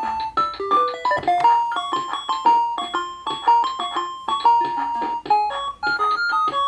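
VTech Phonics Teacher toy playing a synthesized piano-like tune through its small speaker, a quick run of bright notes.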